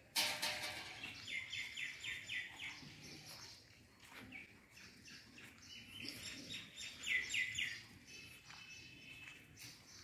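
Birds calling: a quick run of about six repeated high notes, then a similar run about five seconds later. A brief loud harsh sound comes right at the start.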